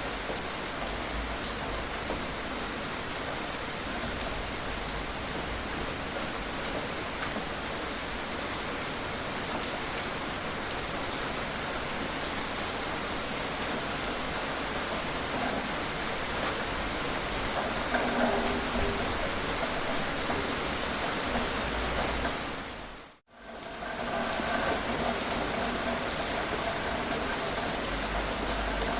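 Steady, gentle rainfall, an even hiss of drops. About 23 seconds in it fades out to silence for a moment and comes straight back.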